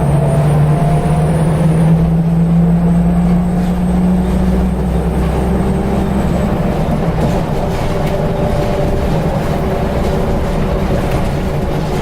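Scania L94UB single-deck bus under way, its diesel engine and ZF automatic gearbox whining as it pulls. The engine note rises over the first few seconds, then eases off about five seconds in.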